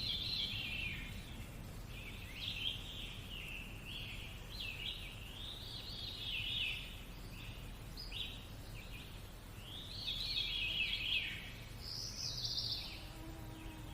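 Birdsong: a near-continuous run of short, varied chirping and warbling phrases, one after another with brief gaps, over a faint steady low hum.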